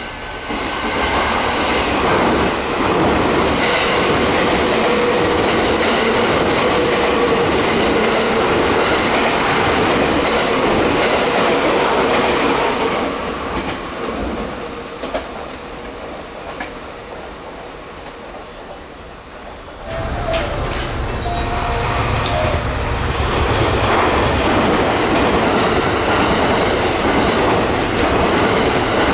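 JR West electric trains passing through a station at speed: one train goes by for about twelve seconds and fades, then after a lull a second train rushes in suddenly about twenty seconds in, with a strong low rumble.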